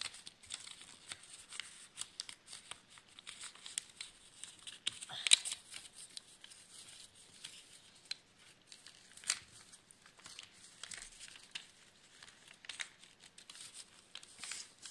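A sheet of paper being folded and creased by hand: intermittent rustling and crinkling, with a sharper crinkle about five seconds in.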